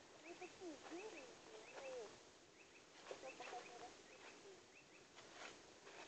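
Faint woodland birdsong: a small bird repeating a short high chirp every half second or so, with lower wavering calls in the first two seconds. Soft rustles and clicks, like steps in leaf litter, come and go.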